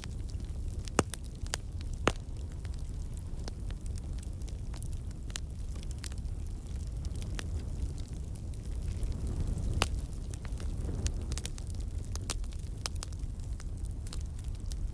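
Wood campfire burning, with a steady low rumble and frequent sharp crackles and pops from the logs. A few pops stand out louder, about one and two seconds in and again near ten seconds.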